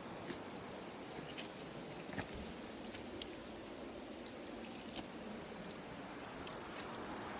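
Water running and trickling in a small stream, a steady rush with many small splashes.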